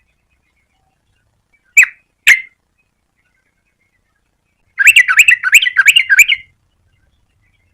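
Yellow-vented bulbul calling: two short chirps about two seconds in, then a rapid phrase of quickly rising and falling notes lasting about a second and a half.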